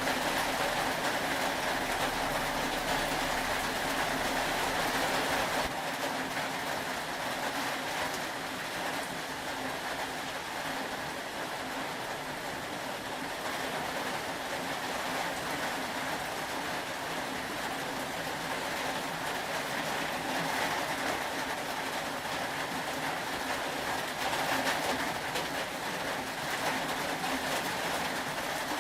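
Steady rain falling, an even hiss with no breaks; the lowest rumble under it eases slightly about six seconds in.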